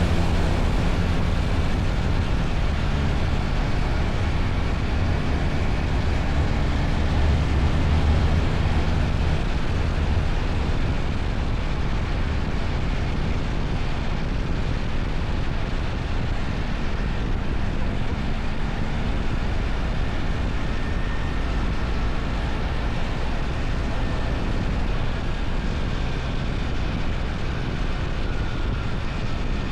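BMW R1300 GS boxer-twin engine running steadily while the bike is ridden, under an even rush of air and road noise. The low engine note is strongest in the first nine seconds or so, then eases slightly.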